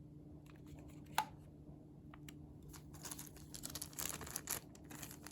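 Hands handling a cordless phone handset and its packaging: a sharp click about a second in, then a few seconds of rustling and scraping with quick small clicks, over a faint steady hum.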